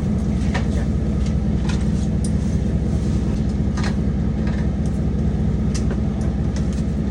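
Lobster boat's engine running steadily, a constant low drone, with a few light clicks and knocks over it.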